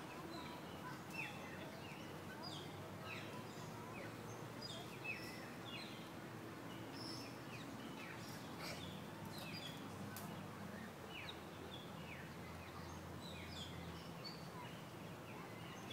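Several birds chirping, many short falling calls scattered throughout, over a steady low hum.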